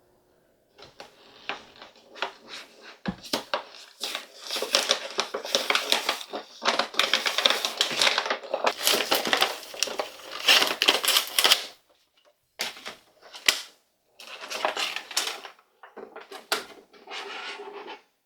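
A toy box and its plastic packaging being opened by hand: crinkling and rustling with many clicks and snaps, in irregular spells broken by short pauses.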